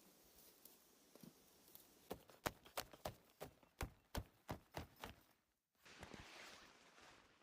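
Faint footsteps on a forest trail: a quick run of sharp, evenly spaced steps, about three or four a second. Near the end the sound drops out briefly, then a soft steady rustle follows.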